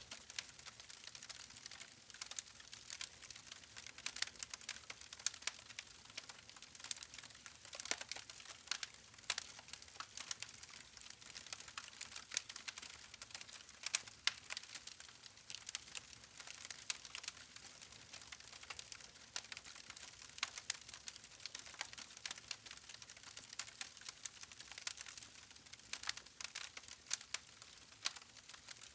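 Wood campfire crackling: a dense, irregular run of small sharp snaps and pops from the burning logs over a soft hiss.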